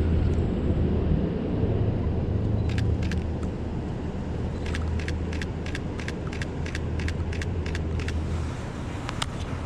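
Camera shutter clicking: a couple of shots, then a quick run of about a dozen at roughly three a second, over a steady low rumble of city traffic.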